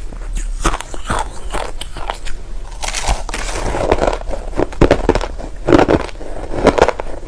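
Close-miked crunching of white crushed ice being bitten and chewed, in a run of repeated crunches that grow louder in the second half.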